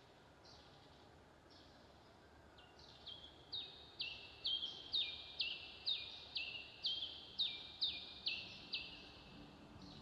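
Bird-like chirping over faint background hiss: a call repeated about twice a second, each note dropping in pitch, starting about three seconds in and fading out near the end.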